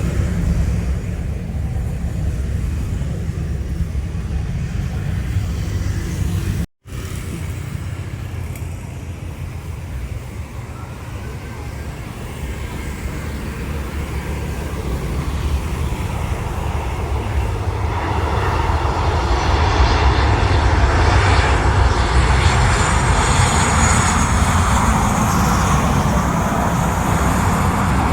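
Jet airliner's engines roaring, growing louder from about two-thirds of the way through as the plane nears, with a high whine falling in pitch near the end. A steady low rumble runs underneath, broken by a sudden cut about a quarter of the way in.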